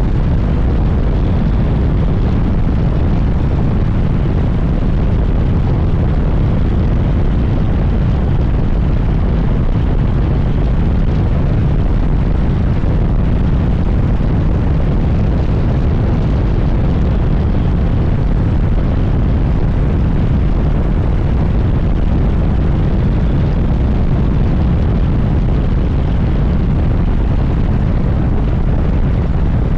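Steady wind noise rushing over the microphone on a moving Suzuki GSX-S1000GT motorcycle. It is a constant low rumble without a clear engine note or any change in speed.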